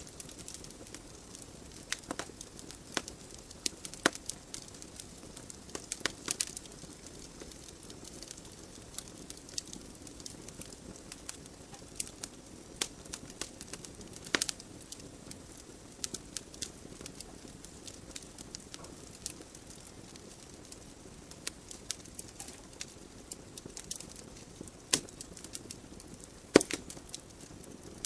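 Wood logs burning in a fireplace: irregular sharp crackles and pops over a soft steady hiss of the flames.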